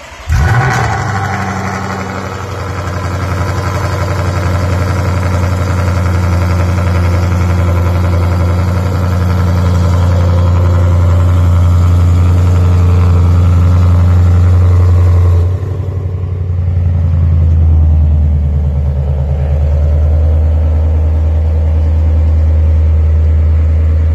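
Lexus RC F's 5.0-litre V8, with unequal-length headers and a valved sport exhaust, cold-starting loudly. It catches with a sudden flare about half a second in and then runs at a steady, high cold idle. About fifteen seconds in, the idle sound drops and turns deeper.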